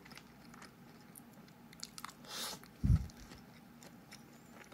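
A person chewing a mouthful of rehydrated instant rice, with faint small clicks. There is a short hiss about two seconds in and a low thump just before three seconds, the loudest moment.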